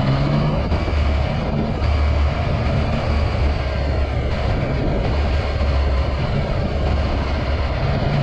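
Yamaha XSR900's 847 cc inline-three engine running through an Akrapovic carbon full exhaust while the bike is ridden, its engine note coming and going under a steady rush of wind noise.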